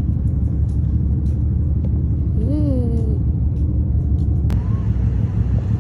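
Steady, loud low rumble of a ferry's engines running. A short voice-like call rises and falls about halfway through, and a single sharp click follows about a second later.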